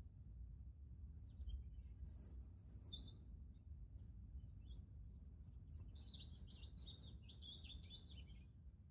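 Garden birds chirping and singing faintly, with a run of quick twittering notes from about six seconds in, over a steady low background rumble.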